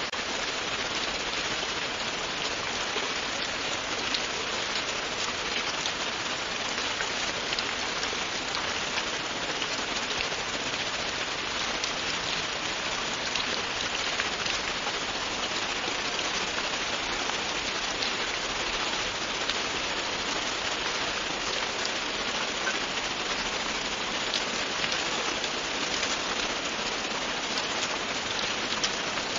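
Steady rain falling on a surface, a constant hiss with many fine drop ticks and no thunder.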